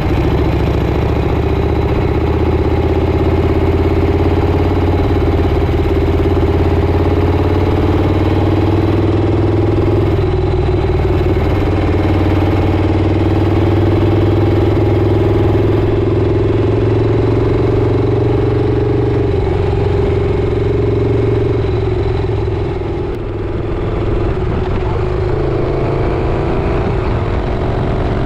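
Motorcycle engine running steadily at road speed with wind rush over it, its pitch drifting gently up and down. The sound dips briefly about three quarters of the way through.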